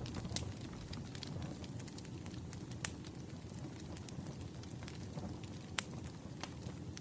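Campfire crackling: a steady low hiss and rumble of burning wood, dotted with many small snaps and a few sharper pops, the loudest about three seconds in and just before six seconds.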